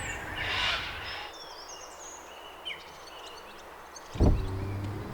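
Outdoor bush ambience. A soft whooshing noise swells and fades in the first second, then small birds give short chirps and whistles. About four seconds in comes a sudden low thump, followed by a steady low hum.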